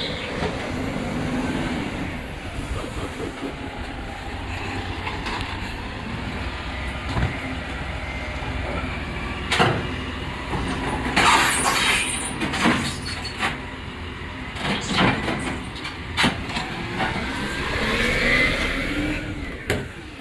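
Waste truck's engine running steadily, with a series of sharp clanks and bangs in the middle and a whine that rises and falls near the end.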